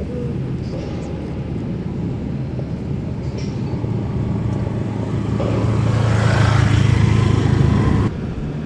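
Boat engine running with a steady low hum. It grows louder over a couple of seconds, then cuts off suddenly near the end.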